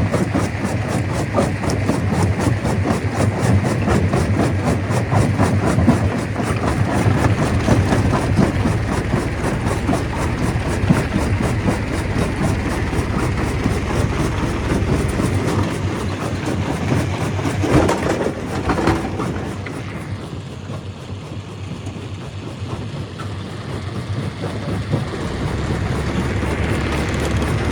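Stone crusher machine running under load, a heavy engine-like drone with dense rattling and crackling of rock, with a sharp knock about two-thirds of the way through; it eases off for a few seconds and then builds again near the end.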